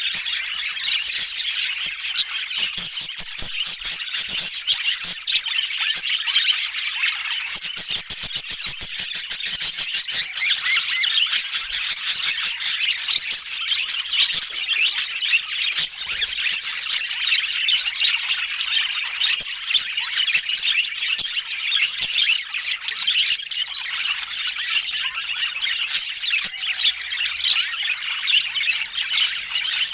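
Budgerigars chattering, chirping and squawking without a break, several birds at once. Rapid sharp clicks run through the first ten seconds or so.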